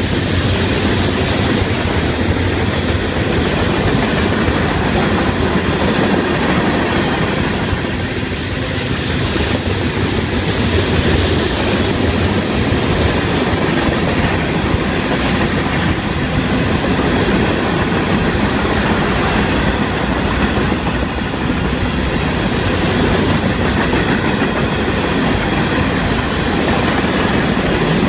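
Freight train's open rock hopper cars rolling past, a steady, loud noise of steel wheels running on rail.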